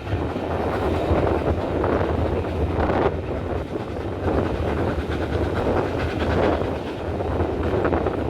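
Steam-hauled passenger train running along the line, its wheels and carriages rattling over the rails in a steady, loud rumble that swells and dips.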